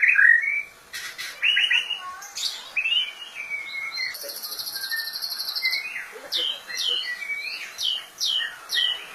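White-rumped shama (murai batu) singing: varied whistled phrases, a fast buzzy trill about four seconds in, then a quick run of sharp falling notes.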